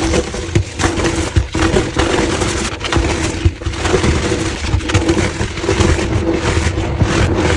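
Gym chalk being crushed and crumbled, dense crunching with many sharp cracks packed close together, played back at double speed.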